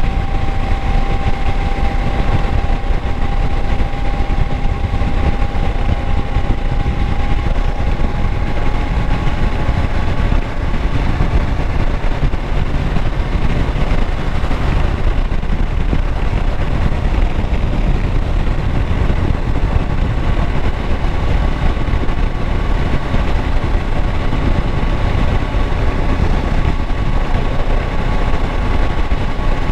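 Kawasaki Versys 650's parallel-twin engine running steadily, with a thin whine above it that slowly rises in pitch.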